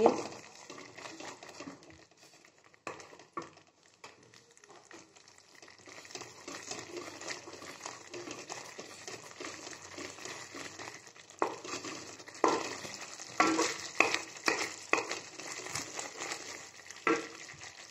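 Onion-tomato masala with curd frying in a metal kadhai with a faint sizzle, as a wooden spatula stirs and scrapes the pan; the scrapes come more often in the second half. The masala is being fried (bhuna) until the oil separates.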